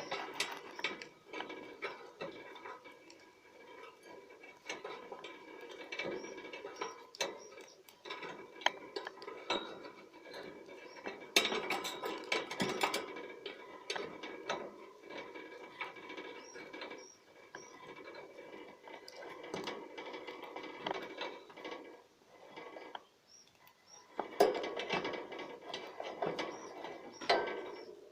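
Male budgerigar warbling in courtship: a long, irregular chatter of rapid clicks and short chirps, louder about halfway through and again near the end.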